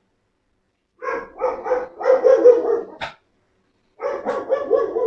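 Dogs barking in two bouts of quick repeated barks, one starting about a second in and the other about four seconds in. A short sharp click comes between the bouts.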